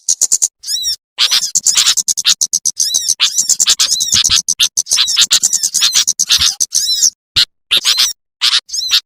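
Small songbirds' calls played as a bird-catching lure: rapid high chirps and trills in quick series, cut by a few abrupt breaks.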